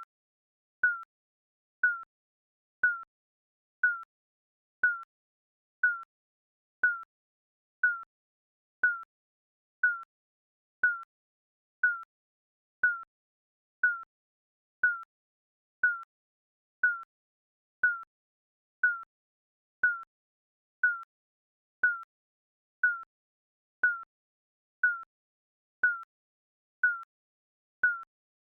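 Digital countdown beep, a short high tone about once a second, each one slightly falling in pitch and fading quickly, with silence between.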